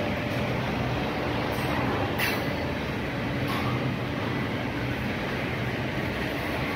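Freight train boxcars rolling past: a steady rumble of steel wheels on the rails, with a short sharp high noise about two seconds in.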